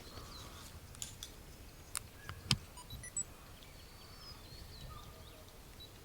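Faint bird calls, short chirps and a thin held whistle, over a low outdoor rumble. A few sharp clicks come about one, two and two and a half seconds in, the last the loudest.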